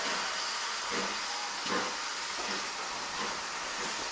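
Steam locomotive hissing steadily as it lets off steam, with a few faint knocks.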